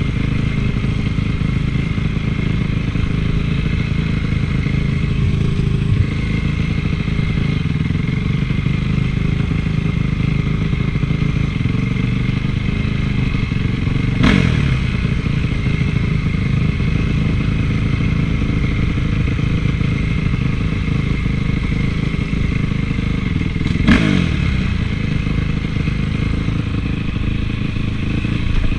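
Honda CRF450's four-stroke single-cylinder motocross engine running steadily while ridden. About halfway through, and again near the end, the engine note jumps sharply and falls away quickly.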